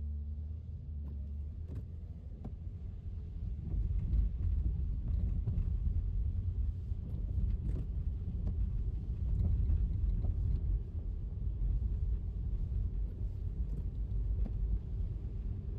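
Car driving on a wet road: a steady low rumble of tyres and road noise that grows louder over the first few seconds, with occasional faint clicks.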